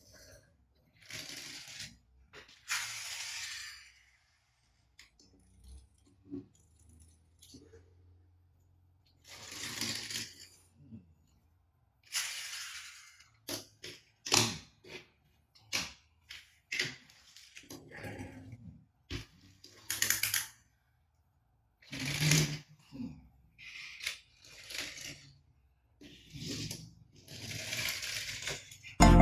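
Small plastic toys being handled and set down: scattered clicks and rattles, with several short bursts of rustling.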